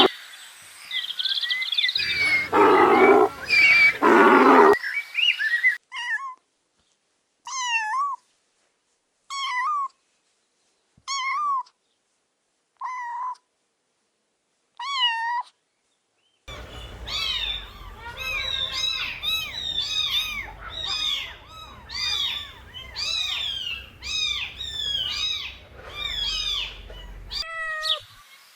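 High-pitched cries from young animals. A loud, jumbled burst of calls comes first. Then single cries come about every second and a half, and from about the middle a quick, overlapping chorus of cries runs until near the end.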